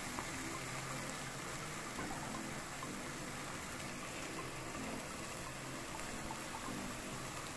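Spice masala sizzling steadily in a frying pan as drained rice and dal are tipped into it, with faint scattered ticks.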